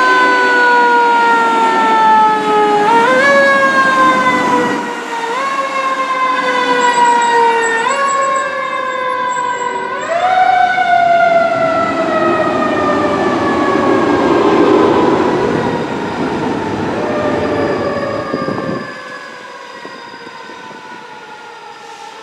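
Fire truck siren sweeping up quickly and then sliding slowly down, again and again every two to three seconds. After about ten seconds it gives one long falling tone that fades out near the end, with the truck's rumble passing underneath.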